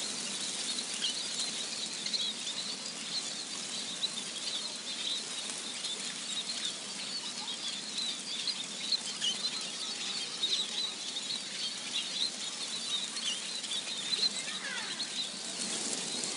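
Many small birds chirping and twittering over a steady hiss.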